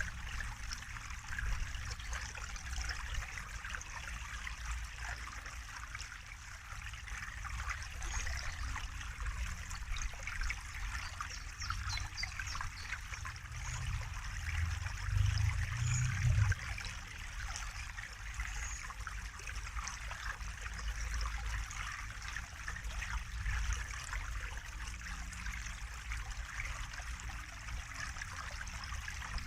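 Water trickling and splashing steadily, a continuous fine babble. A brief low rumble swells about halfway through.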